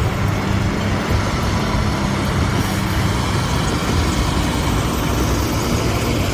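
Kenworth W990 heavy-haul truck's diesel engine running steadily while pulling a heavy trailer load, a continuous low drone with road noise.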